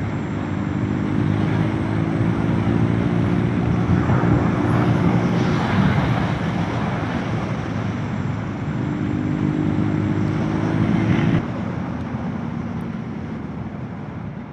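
Motorcycle engine running under way, with wind and road noise. About eleven seconds in, the engine note drops away, leaving fainter wind and road noise.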